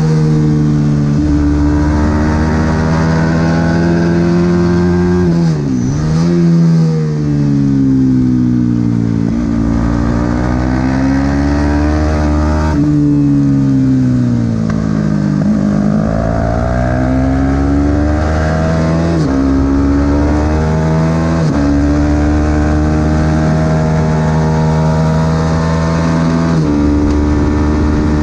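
Supersport 300 race motorcycle engine at high revs on track, pitch climbing and then dropping in sudden steps as it changes up. Twice the revs sweep down deep and climb again as it slows for a corner and accelerates out.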